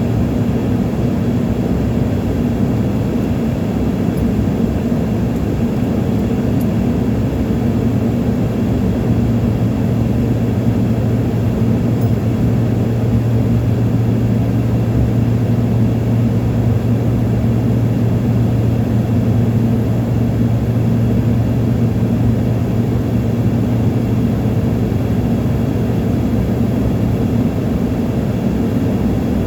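Steady low drone of an airplane's engines and rushing air, heard from inside the passenger cabin in flight.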